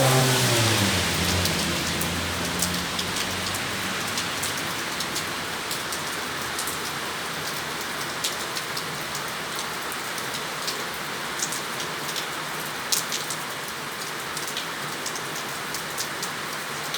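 Steady heavy rain falling, with sharp ticks of individual drops over it. A low engine hum, falling in pitch, fades away over the first few seconds.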